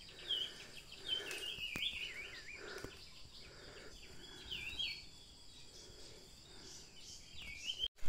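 Wild birds calling in forest: short chirping, bending call notes in a string over the first few seconds, again around five seconds in and once more near the end, with a faint steady high-pitched buzz underneath.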